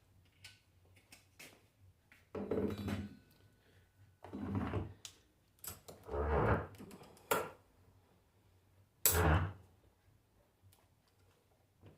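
Alternator parts and tools handled on a workbench during reassembly: a series of about five knocks and short scrapes with small clicks in between.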